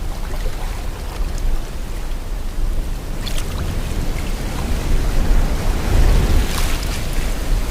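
Sea water washing and wind blowing, a continuous rushing noise with a deep rumble underneath that swells about five to six and a half seconds in.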